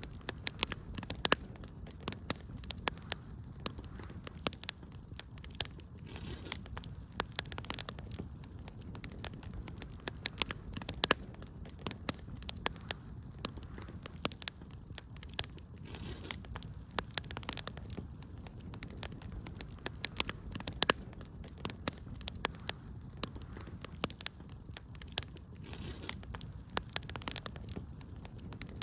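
Wood fire crackling steadily, with frequent sharp irregular pops and snaps over a low rumble of flame.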